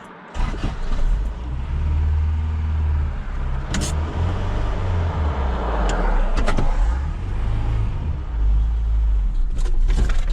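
Truck engine starting about half a second in, then running rough, with the revs rising and falling as it is held high to keep it from stalling. The rough running comes from a vacuum leak.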